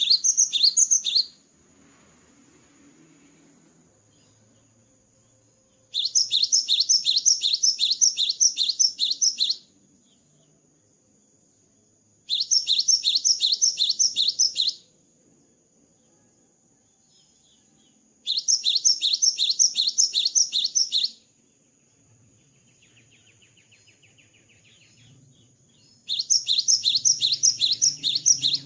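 Gelatik batu (cinereous tit) singing: five loud phrases, each a rapid run of the same high, sharp note repeated several times a second for two to four seconds, separated by pauses of a few seconds. A faint steady high tone runs underneath.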